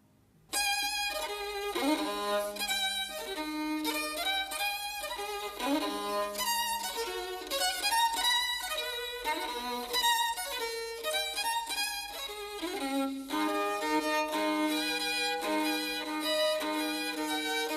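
Solo violin, the instrument announced as an Antonio Stradivari, playing a melodic passage. It begins about half a second in, slides between notes, and sounds two notes at once near the end.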